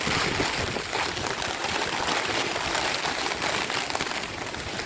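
Steady rushing noise of hurricane wind and rain.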